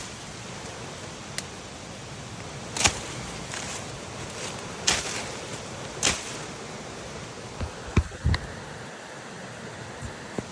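Steady rain hiss, with sharp brushing sounds every second or two from a person walking through wet vegetation, several close together near the end.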